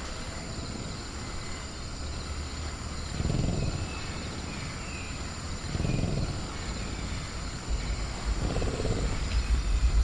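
Sound-designed velociraptor making low growls, three times, with a low rumble building near the end. Under it is a steady cricket chorus with faint bird chirps.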